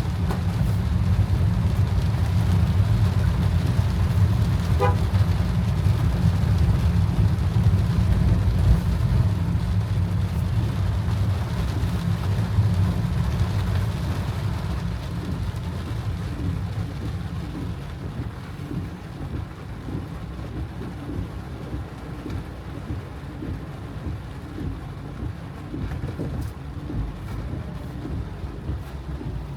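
A car driving in heavy rain: a steady low road-and-engine rumble with the hiss of rain on the car. The rumble eases off around the middle and stays lower after that.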